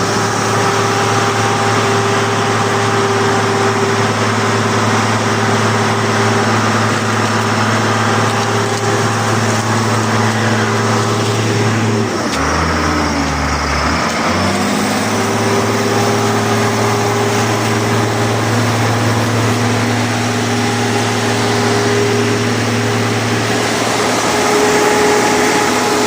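Fire pump set running with a loud, steady machine drone. About halfway through, its pitch drops for about two seconds, then comes back up to speed.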